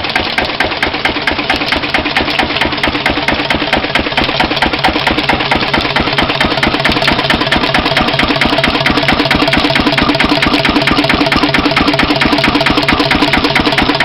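1931 Lister CS single-cylinder diesel engine running steadily with a fast, even knocking beat while it drives a Gramme dynamo. It gets slightly louder about five seconds in.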